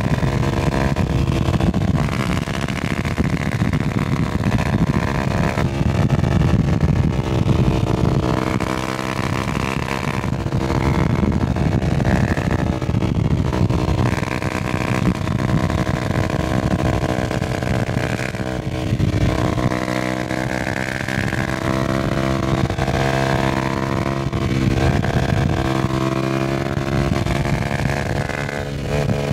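Honda CBR250R's single-cylinder engine running steadily as the bike is ridden, its pitch rising and falling with throttle and gear changes, over a continuous low rushing noise.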